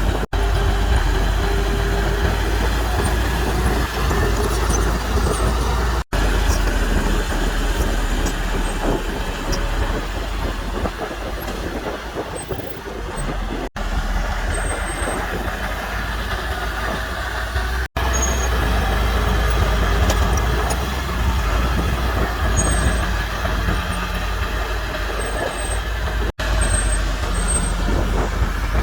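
Heavy diesel earthmoving machinery, a bulldozer and dump trucks, running steadily with a low engine rumble. The sound drops out for an instant five times.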